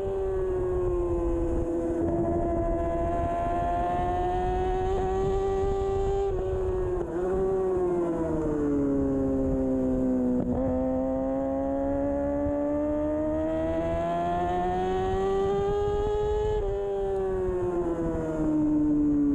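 2013 Kawasaki Ninja 636's inline-four engine running at high revs under race riding, its pitch climbing and falling with throttle and dropping at brief breaks for gear changes, over a low rush of wind.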